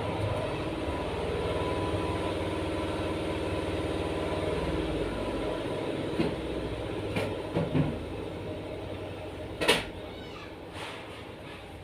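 A motor hum at a steady pitch that fades away over the first seven seconds, followed by a few knocks and one sharp, loud click about ten seconds in.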